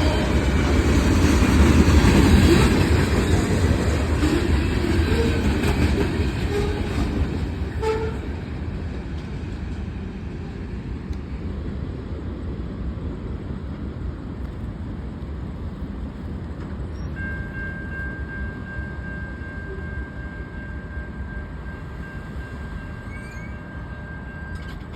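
A train passing, its rumble loudest about two seconds in and fading over the next several seconds into a quieter steady rolling noise. In the last seven or eight seconds a steady multi-note tone is held, then cuts off suddenly.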